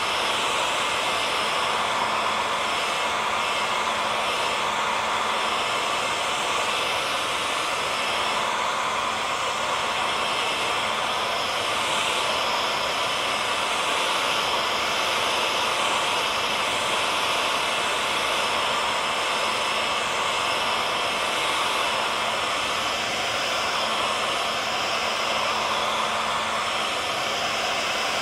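Electric hair dryer running steadily: a constant airy rush with a faint motor hum, unchanging throughout.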